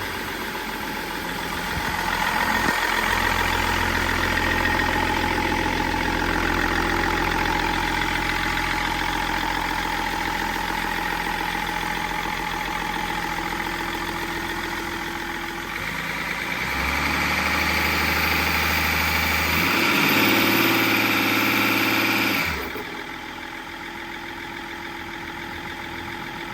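BMW M57D30 3.0-litre straight-six diesel engine, out of the vehicle, running steadily at idle. The note shifts briefly about two-thirds of the way through, then the engine goes noticeably quieter near the end. The seller describes it as running without issues, with no rattling or knocking.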